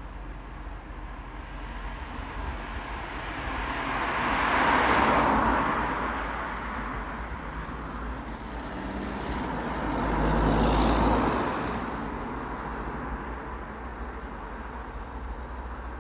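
Road traffic: a car passes by about five seconds in and another about eleven seconds in, each swelling and fading over a few seconds above a steady road rumble.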